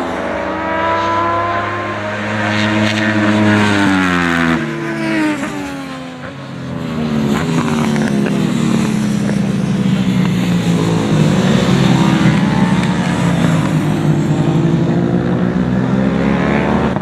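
Sportbike-class racing motorcycles, 650–660 cc twin- and triple-cylinder bikes, going past on track. Engine notes drop in pitch over the first few seconds as a bike slows, then several bikes are heard at once, their engine notes dipping and rising again as they accelerate away.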